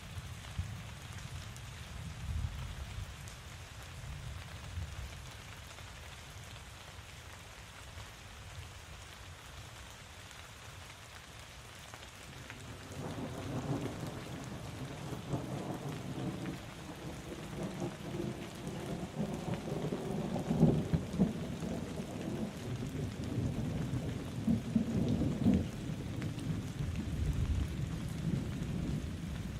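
Steady rain falling, with a long low rumble of thunder that builds up about halfway through and rolls on to the end.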